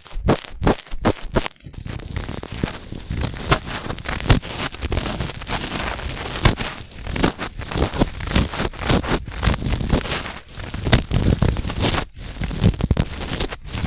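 Cotton swabs rubbing and scratching in the ear of a binaural microphone, very close. Quick separate strokes, about four a second, for the first second and a half, then continuous scratchy rubbing.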